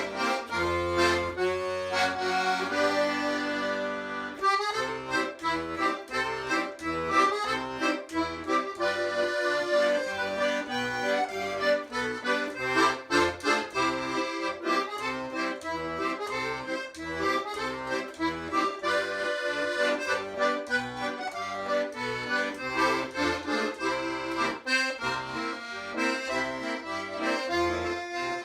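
Accordion music in a traditional style, with a steady oom-pah bass beat.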